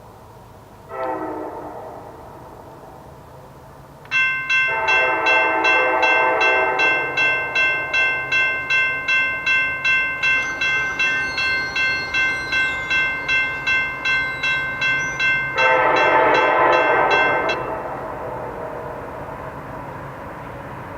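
Diesel locomotive air horn sounding a short blast, then two long blasts as the train nears a crossing. A bell rings about twice a second from a few seconds in until just after the last blast, and the rumble of the passing train runs on underneath.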